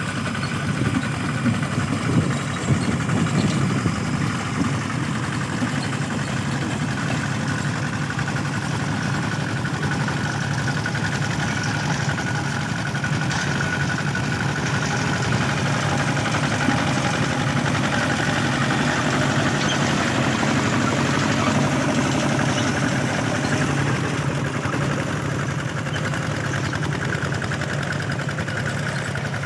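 Mini tractor's engine running steadily, with a few louder surges in the first few seconds.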